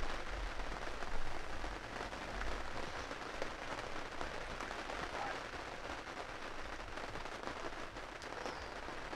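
Steady patter of light rain on the fabric roof of a hunting ground blind.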